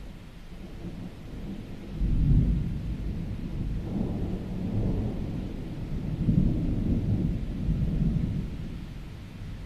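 Thunder rumbling. It swells about two seconds in, rolls through several surges and fades near the end, over the steady hiss of rain.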